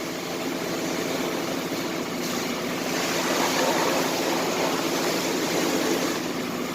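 An engine running steadily, with a rushing hiss like spraying water that grows louder about two seconds in.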